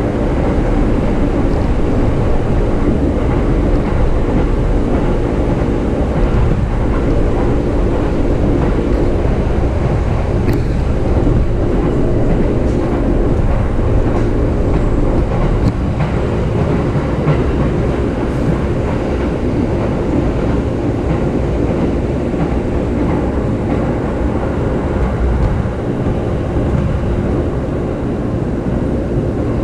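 JR East E233 series electric commuter train heard from inside the carriage while running: a steady rumble of wheels on rails with a few faint clicks.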